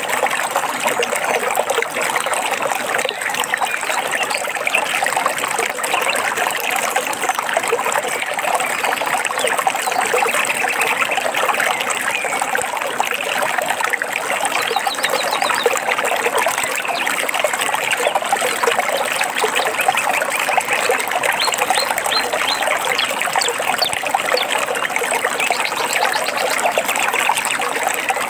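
Small stream trickling and babbling steadily, with faint bird trills and chirps over it now and then.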